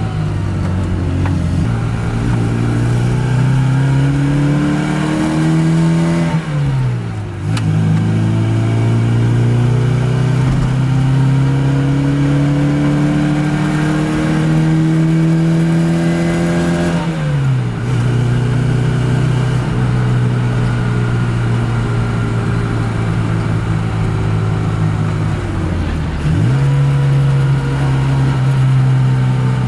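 Austin Mini's A-series four-cylinder engine pulling while driving. Its pitch climbs slowly and drops sharply three times at gear changes.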